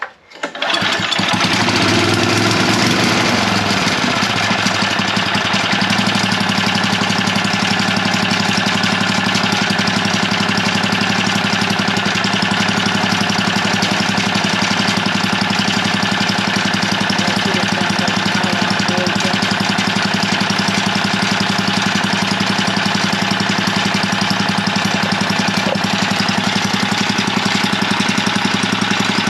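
Craftsman edger's 3-horsepower, 80 cc Tecumseh single-cylinder engine starting about half a second in, then running steadily.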